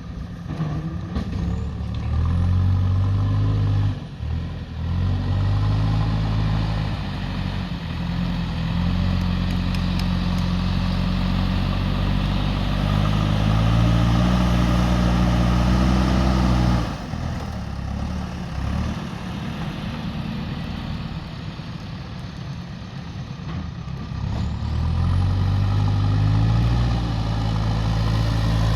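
JCB 3DX backhoe loader's diesel engine revving up under load while it digs and moves soil, easing back toward idle for several seconds past the middle, then revving up again near the end.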